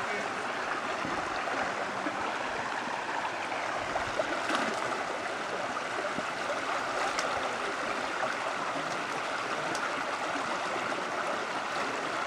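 Forest stream running high, its water flowing steadily over rocks, with a few faint clicks.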